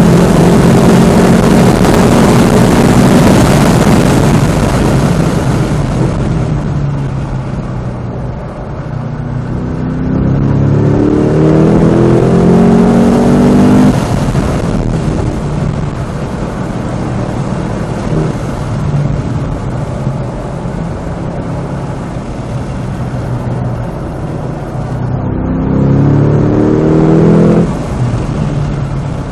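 Cadillac CT5-V Blackwing's supercharged 6.2-litre V8 at full throttle on track: high revs at first, easing off, then twice climbing steeply in pitch, each climb ending in a sudden drop in the engine note.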